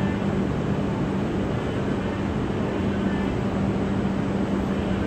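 Steady low hum and rumble of an E6 Komachi shinkansen creeping slowly along the platform with its nose open, approaching to couple with a Hayabusa.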